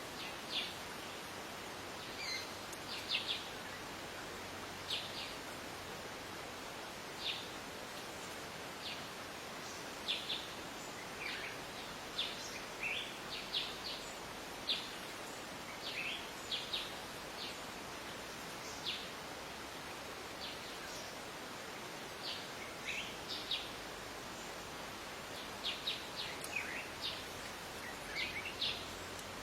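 Wild birds chirping: short, sharp, high notes come irregularly throughout, some in quick clusters of several, over a steady background hiss.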